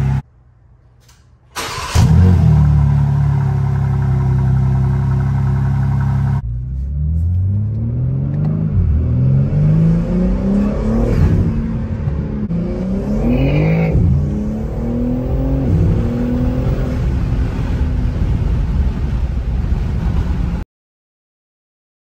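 BMW M3 Competition's S58 twin-turbo inline-six starting with a sharp flare about two seconds in, then running steadily at idle. It then accelerates hard through several gears, its pitch climbing and dropping back at each upshift, and cuts off near the end.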